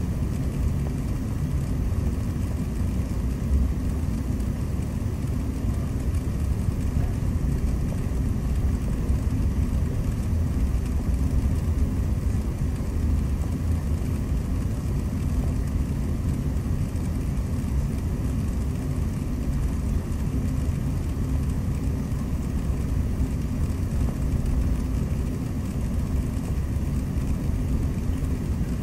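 Steady low rumble inside an airliner cabin on the ground before takeoff: jet engines and air conditioning running, with no change in level.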